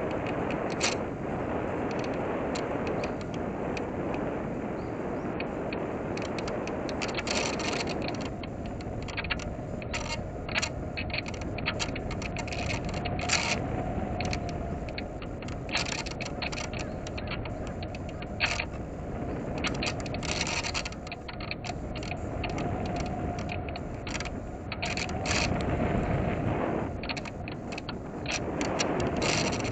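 Airflow rushing over a small electric RC plane's onboard camera microphone in flight, with frequent short crackles. A faint steady hum comes in about a quarter of the way through and fades near the end.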